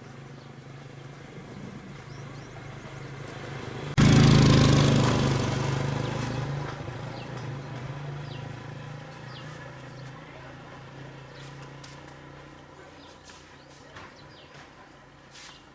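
Motorcycle engine running steadily; about four seconds in it suddenly gets much louder, then slowly fades away.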